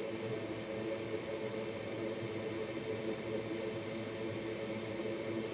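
Steady whir of a small fan with a low, even hum of several tones underneath.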